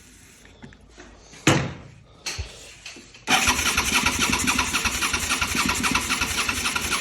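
Suzuki SV650 V-twin engine on starting fluid sprayed into the open intake: a couple of short knocks, then from a little before halfway it runs with a fast, even pulsing and stops near the end. It fires on the spray alone, the sign that the ignition works and the fault is in the fuel supply.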